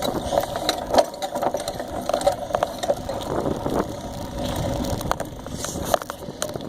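Bicycle being ridden, rattling and clicking irregularly, with tyre and road noise, heard from a phone mounted on the bike.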